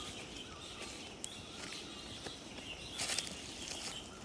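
Forest ambience: faint bird calls, short chirps over a steady hiss, with a brief louder noise about three seconds in.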